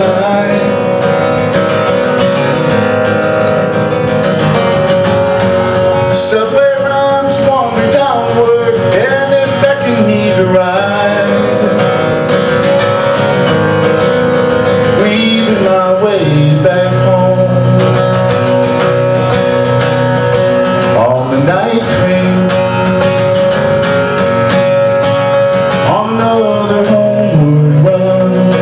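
Acoustic guitar playing the instrumental introduction of a song, strummed over a held note, with a melody line that bends up and down in pitch.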